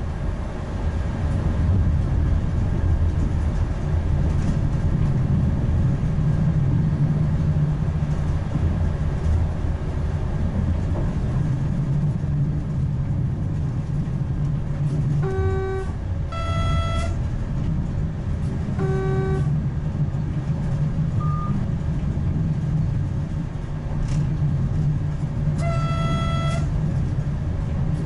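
Alvia Renfe 120 electric train running with a steady low rumble. From about halfway, a series of short tones at two alternating pitches sounds every few seconds, like horn toots or cab warning beeps.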